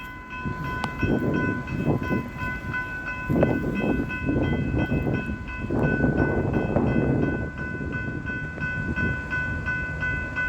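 Diesel freight train rumbling past a level crossing, its noise swelling and easing, while the crossing's warning bells keep ringing with a steady, regular pulsing tone.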